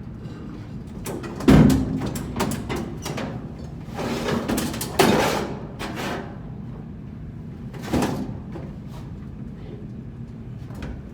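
Irregular metal knocks and clatter of tools and parts being handled. The loudest is a heavy thump about a second and a half in, with more knocks near the middle and around eight seconds.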